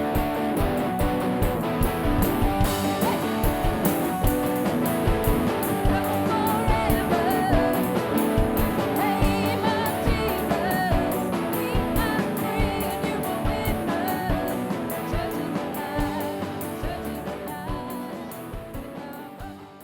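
Rock-style band music with electric guitar and a drum kit playing a steady beat, and a wavering melody line over it, fading out near the end.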